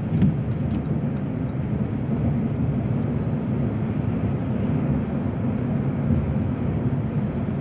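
Steady low rumble of a car driving along a road, heard from inside the vehicle: engine and tyre noise.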